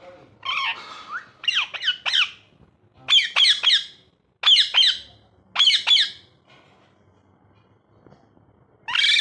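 Ringneck parrot squawking: short, high calls in quick groups of two to four, then a pause of a couple of seconds before one more squawk at the end.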